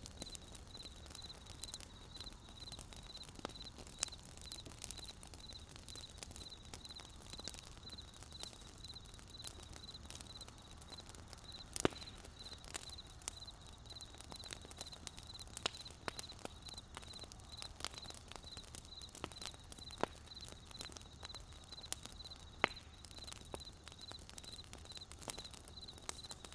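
Wood fire crackling, with irregular sharp pops and a louder pop about twelve seconds in. Beneath it runs a steady high-pitched chirping that pulses about three times a second.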